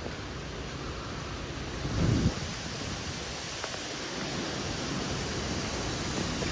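Severe thunderstorm wind blowing as a steady rushing noise, with a short, loud low rumble of a gust buffeting the microphone about two seconds in.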